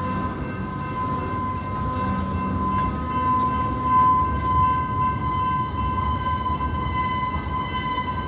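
Freight train of tank cars rolling past close by: a steady rumble of wheels on rail, with a continuous high-pitched ringing tone held over it.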